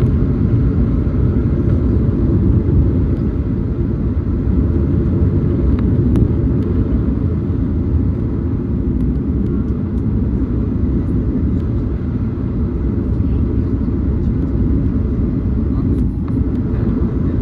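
Steady low rumble of a Boeing 737's engines and airflow, heard in the passenger cabin.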